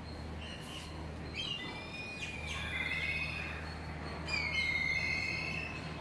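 Birds calling with short whistled notes and chirps, the loudest about four seconds in, sliding down into a held whistle. A steady low hum runs underneath.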